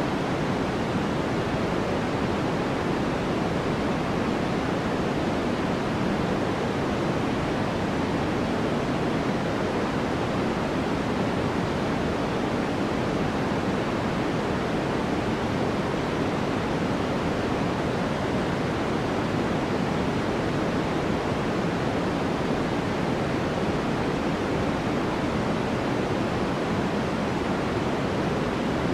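Steady white noise for studying: an even, unbroken hiss, weighted toward the low and middle range rather than bright.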